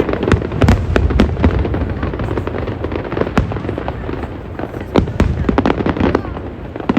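Aerial fireworks going off in rapid, irregular succession: many sharp bangs and crackles over a steady low rumble of booms.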